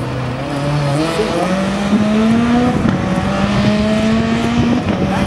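Rally car engine pulling hard under acceleration, its note climbing steadily, then dropping briefly about five seconds in at a gear change before climbing again, over gravel and tyre noise.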